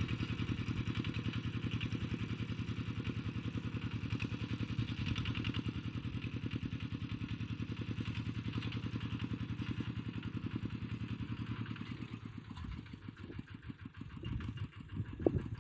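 Engine of the ploughing machine running steadily with a fast, even pulse, dropping away and becoming uneven about twelve seconds in. A short knock comes just before the end.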